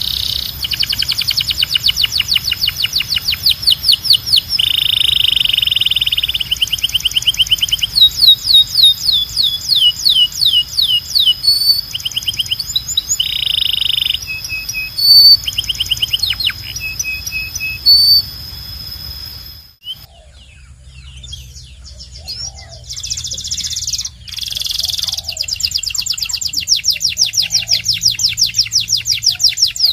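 Domestic canary singing: long trills of rapidly repeated notes, switching from one phrase type to the next, some fast and sweeping, some buzzy and even. The song cuts off suddenly about twenty seconds in, then picks up again in a fresh passage of rolling trills.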